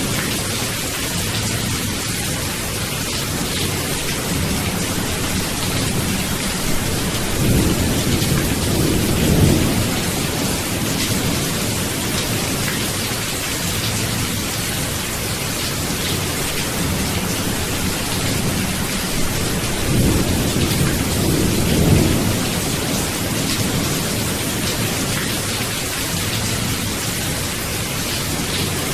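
Steady rain falling, an even hiss, with distant thunder rolling in low rumbles twice: once a quarter of the way in and again about two-thirds of the way through.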